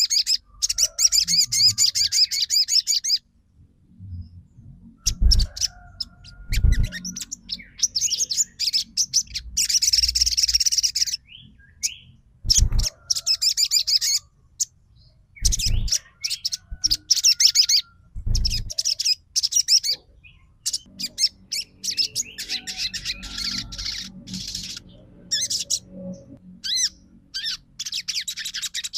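A crimson sunbird singing in bursts of rapid, high-pitched chattering trills, a second or two each with short pauses between, and a few dull low thumps in between.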